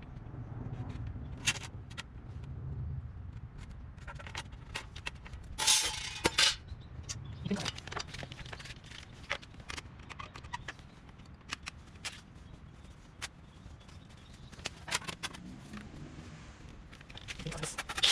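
Scattered light clicks and knocks of stainless-steel fire-pit parts and tools being handled while a cut is set up, with a louder clatter about six seconds in.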